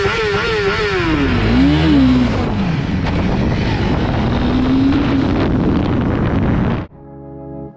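Motorcycle engine revved in quick repeated blips, then the clutch let out with the revs still high: the revs drop and climb again as the bike pulls away and accelerates. Organ music cuts in near the end.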